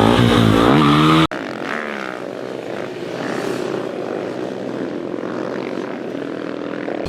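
Pop song with singing that cuts off abruptly about a second in, followed by an engine running at a fairly steady pitch, heard from some way off.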